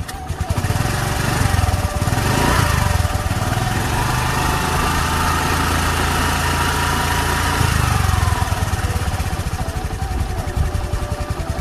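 Engine running sound as the toy scooter moves off: a steady, pulsing engine note that grows louder about a second in and eases off around eight seconds.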